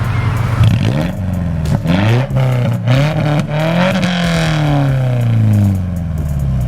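Straight-piped Subaru flat-four boxer engine, its muffler removed and replaced by a plain pipe, revving up and down several times: short rises in the first couple of seconds, then a longer climb peaking about four seconds in and a slow fall back.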